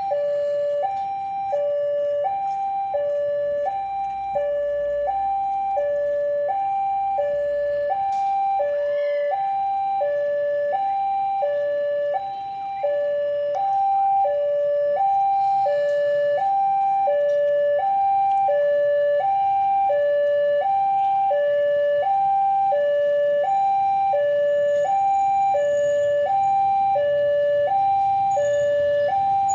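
Two-tone hi-lo siren, alternating steadily between a higher and a lower note about once a second.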